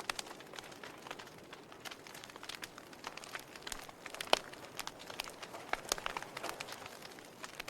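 Fire burning in a fireplace, crackling with irregular sharp pops over a soft steady hiss; one pop about four seconds in is clearly louder than the rest.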